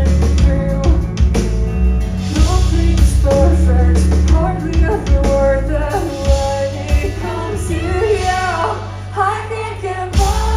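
Live pop-rock band performance: a woman singing over loud bass and drums. The deep bass falls away for a couple of seconds near the end, then comes back.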